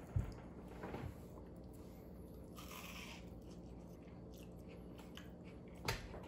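Faint chewing of a mouthful of deep-fried peanut butter and jelly sandwich, with a sharp click just after the start and another near the end as the sandwich is set down on the plate.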